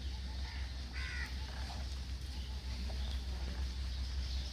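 A crow cawing once, about a second in, over a steady low rumble.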